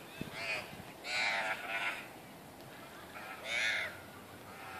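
Birds calling: a few short calls in the first two seconds and one more a little past the middle.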